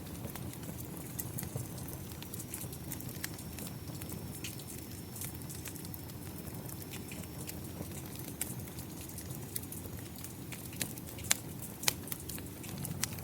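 Wood fire crackling, with scattered sharp pops and a couple of louder snaps near the end, over a steady low rumble of rain and flames.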